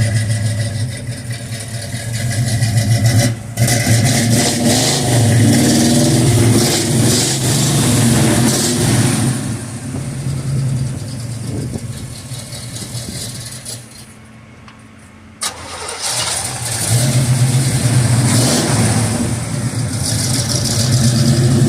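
Chevrolet Camaro SS V8 engine running loud, its note rising and falling with the throttle. About two-thirds of the way through it drops away for a second or two, there is a sharp click, and then it runs loud again.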